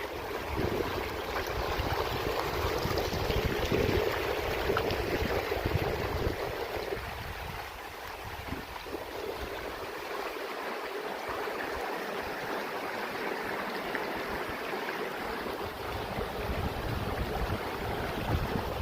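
Stream water running steadily, with wind buffeting the microphone for roughly the first seven seconds and again near the end.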